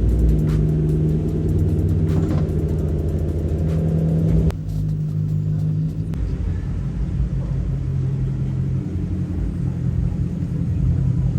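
Toyota Crown Majesta's 4.6-litre V8 running with a steady low rumble; the note drops and changes about four and a half seconds in.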